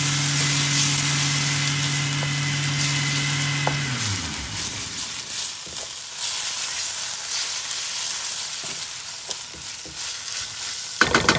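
Onions, garlic and a pepper-and-tomato paste sizzling in a stainless steel wok while a wooden spoon stirs them. A steady motor hum sounds over the frying at first, then drops in pitch and stops about four seconds in. A few sharp scraping strokes come near the end.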